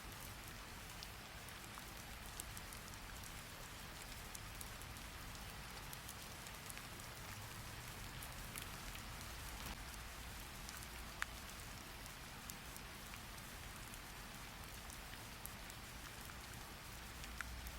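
Steady rain falling, with a few scattered sharp taps or clicks; the loudest comes about eleven seconds in.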